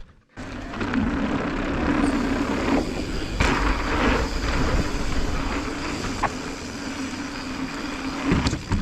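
Mountain bike riding down a dirt singletrack: steady tyre and trail noise with wind on the microphone, and a few sharp rattles and clicks from the bike over roots and bumps.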